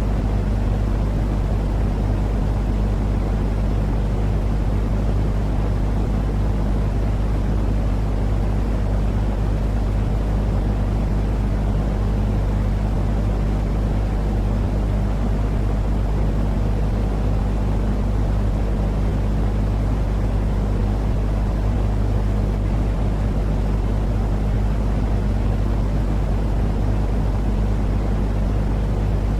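A steady, low rumbling noise with a deep hum under it, unchanging throughout. It is a baby-soothing 'white noise' sleep track, weighted toward the low end like a running engine.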